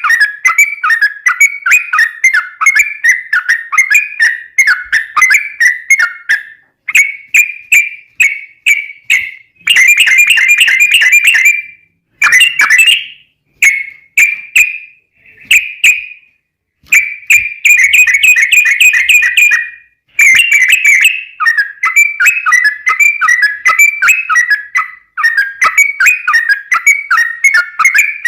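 Yellow-vented bulbul (trucukan) singing a long run of fast, bubbly chirping notes, repeated phrase after phrase with only brief pauses. This is the rapid rolling song used as a lure to get other bulbuls calling.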